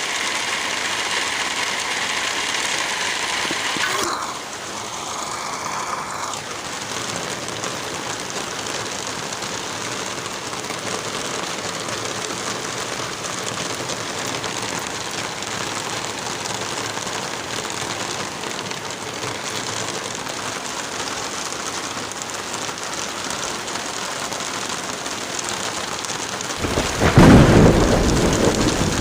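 Steady heavy rain, with a loud clap of thunder about 27 seconds in, the loudest sound here. About four seconds in, a faint humming layer drops out and the rain carries on a little quieter.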